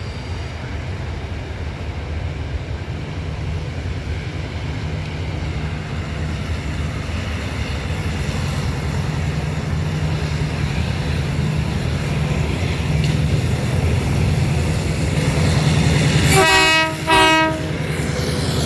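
Passenger train approaching, its engine sound growing steadily louder, then two short blasts of its horn near the end.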